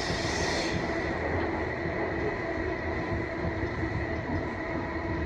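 Train running, heard from inside the car: a steady rumble with a constant hum, and a high hiss that dies away about a second in.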